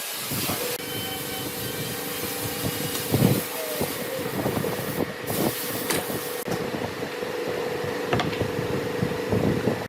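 An electric power tool's motor running at a steady pitch, with scattered knocks and clatter of wood being handled over it.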